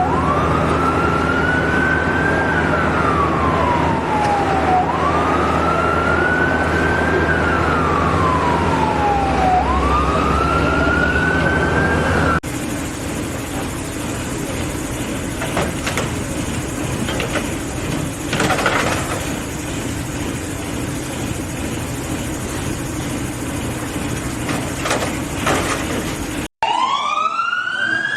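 Fire truck siren wailing, rising and falling about every two and a half seconds over a steady engine hum. After a sudden cut, about fourteen seconds of engine and traffic noise without the siren, then another cut to a siren wailing again near the end.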